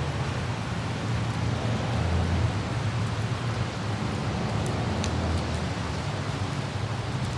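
Steady low rumble of a car driving, with the even hiss of light rain and wind over it, and a few faint raindrop ticks about five seconds in.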